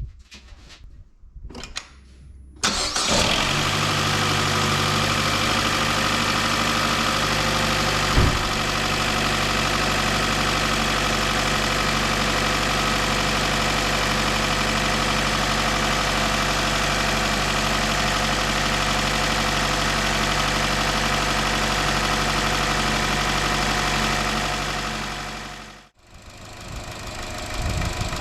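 2013 Chevrolet Cruze 1.4-litre turbo engine starting about three seconds in and idling steadily, with a single sharp knock about eight seconds in; the engine shuts off a couple of seconds before the end.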